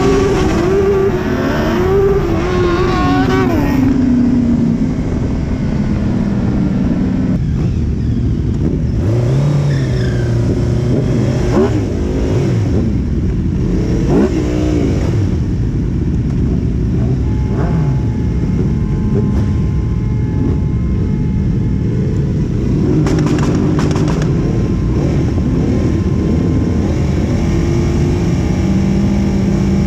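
Suzuki Hayabusa's inline-four engine heard from on board while riding. It revs high for the first few seconds, then drops, and its pitch rises and falls with the throttle through the rest of the ride.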